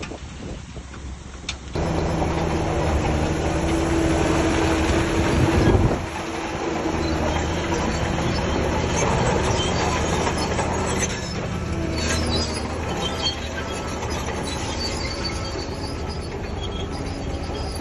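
Shantui DH17C3 crawler bulldozer running, its steel tracks squealing and clanking over the diesel engine. The sound comes in abruptly about two seconds in, swells to its loudest just before six seconds, then eases back a little.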